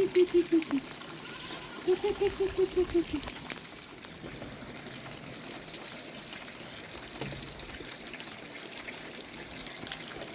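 Rainwater trickling and running steadily. Twice in the first three seconds, a wavering call with fast, even pulses sounds over it.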